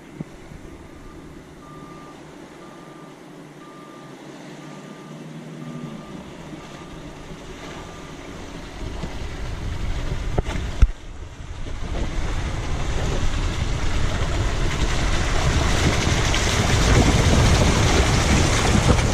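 A vehicle's electronic warning beep, repeating about every two-thirds of a second for several seconds. It is followed by a rushing wash of noise that builds and grows loud, with one sharp knock partway through: a vehicle ploughing through deep river water.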